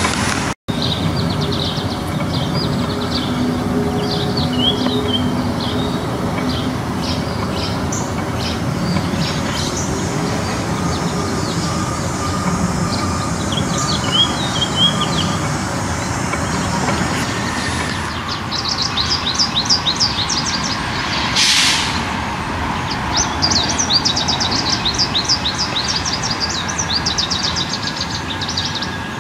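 Wild birds chirping and singing in short repeated phrases over a steady low background rumble. The rumble eases about eighteen seconds in, and the birdsong then comes thicker and clearer.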